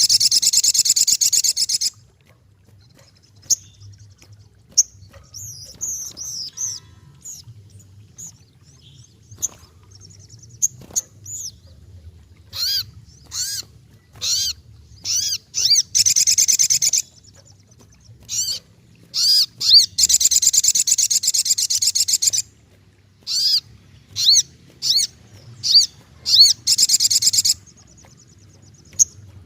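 Racket-tailed treepie (sogokontong) calling: a string of sharp, quick chirps broken by several loud, rasping rattles about two seconds long, one at the start, two in the middle and one near the end.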